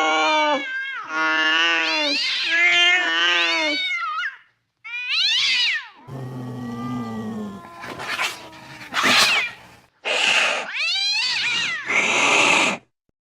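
Angry cat caterwauling: a long wavering yowl, then a run of shorter yowls, the later ones harsher and more hiss-like, breaking off suddenly near the end.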